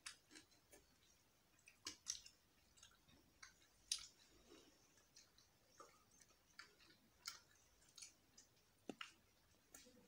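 Faint, scattered chewing and lip-smacking clicks of people eating roast chicken with their fingers, with a sharper click about two and four seconds in.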